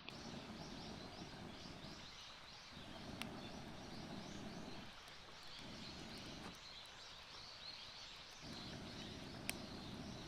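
Outdoor ambience: a continual stream of rapid high chirps over a low rushing noise that swells and drops away in stretches, with two sharp clicks, one about three seconds in and one near the end.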